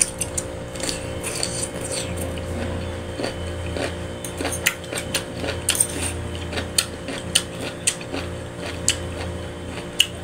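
A person eating, chewing crisp vegetables in close-up, with sharp clicks and crunches about twice a second over a steady hum.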